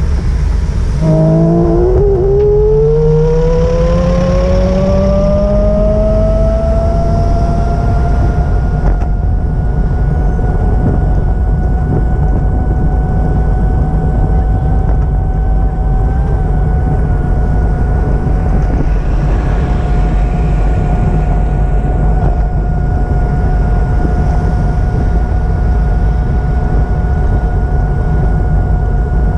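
A vehicle speeding up, its whine rising in pitch over about seven seconds and then holding steady, over a heavy low rumble.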